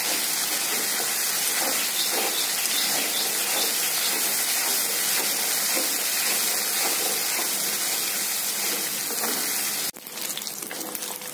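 Dried small fish sizzling in hot oil in a metal kadai, with a steady hiss and the light scrape of a metal spatula stirring. About ten seconds in the sound drops suddenly to a quieter sizzle with more spatula scrapes.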